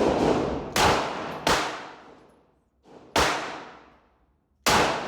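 Five handgun shots fired one at a time: three in quick succession, then two more spaced about a second and a half apart. Each shot is followed by a long echo.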